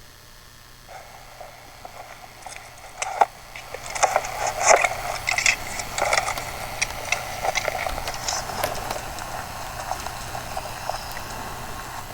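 A camera being carried and handled: irregular small clicks, knocks and rattles of the camera and its gear, faint at first, busiest a few seconds in, then sparser, over a steady low hum.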